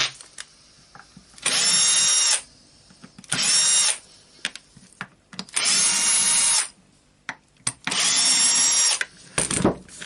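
Drill used as a screwdriver, running in four short bursts, each a steady whine of about one second, as it backs out the housing screws of an orbital sander. A loud knock just before the end.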